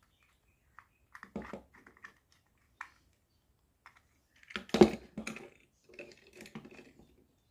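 Scattered clicks, taps and rattles of hands working wires into a switchboard's switch terminals, with a louder cluster of knocks about halfway through.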